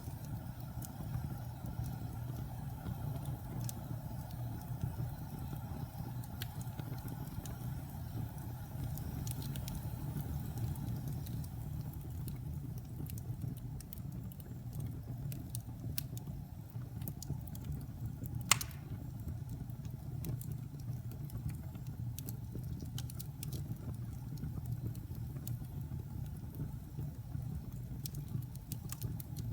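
Wood fire burning in a fireplace: a steady low rumble with scattered light crackles and one sharp, loud pop about two-thirds of the way through.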